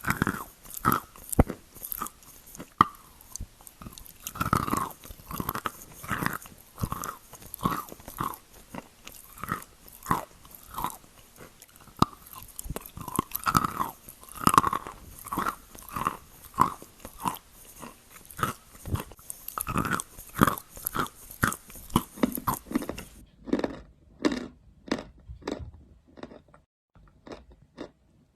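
Close-miked chalk being bitten and chewed: sharp crunches one or two a second with fine crackling between them. Near the end the crunches turn duller.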